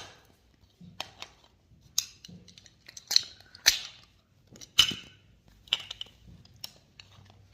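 A series of short, sharp clicks and snips, a dozen or so at irregular intervals, one to three a second.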